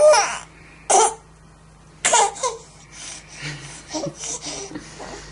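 Baby crying in short, broken sobs and gasps: three loud bursts in the first two and a half seconds, then weaker whimpers.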